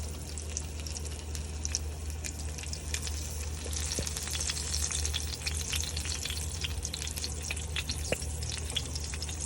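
Oil sizzling and crackling in a skillet as a flour-tortilla chicken quesadilla fries, with a steady low hum underneath.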